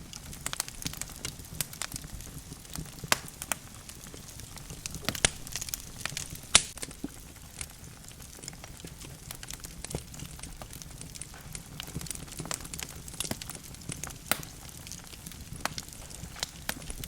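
Burning logs in a fireplace crackling: irregular sharp pops and snaps over a steady low rumble of flame, with a louder pop about six and a half seconds in.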